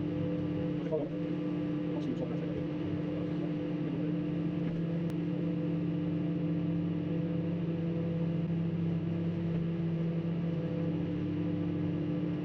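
Microwave oven running at full power, a steady hum with a few faint clicks about a second or two in.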